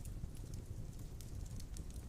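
Large logs burning in a stone fireplace: a steady low rumble of the fire with scattered small crackles and pops.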